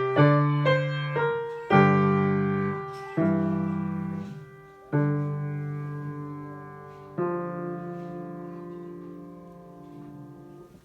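Piano playing the closing bars of a slow blues piece. A few quick notes lead into four sustained chords struck one to two seconds apart; the last is played softly, held with the damper pedal and left to fade away.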